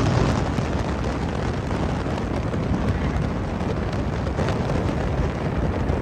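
Car on the move: a steady low rumble of engine and road noise, with some wind buffeting.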